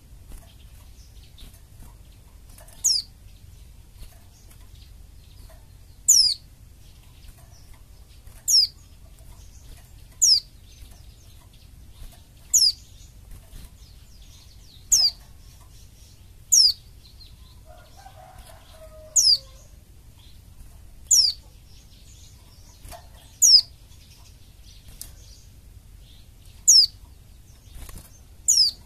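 White-eye (pleci) repeating a thin, very high call that falls steeply in pitch, given about every two to three seconds, a dozen times in all.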